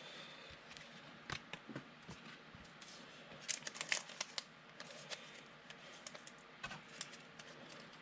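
Trading cards being handled and shifted on a table, with scattered light clicks and plastic crinkling, busiest about halfway through.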